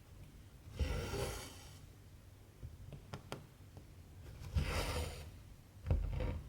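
Cotton embroidery thread being pulled through cross-stitch fabric in three swishing pulls, the last two close together near the end, with a few light clicks about halfway through.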